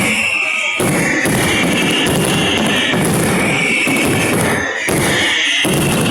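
Fireworks finale: a dense, continuous barrage of rapid explosions and crackle merging into one loud wall of sound, with brief lulls about half a second in and near the end.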